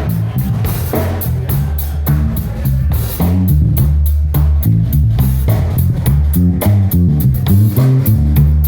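Live blues band playing, with guitar over a moving bass line and a steady drum-kit beat.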